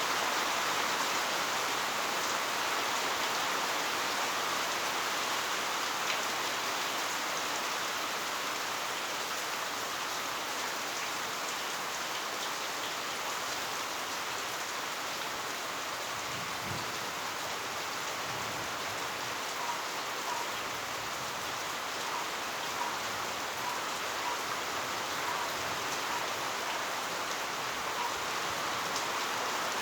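Heavy rain falling steadily, an even hiss of drops with occasional sharper individual drop ticks.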